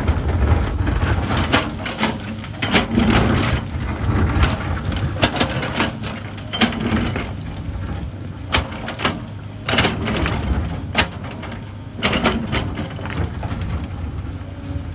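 Hyundai excavator at work: its diesel engine runs steadily under the digging, with many irregular sharp clanks and scrapes of the bucket and breaking rock.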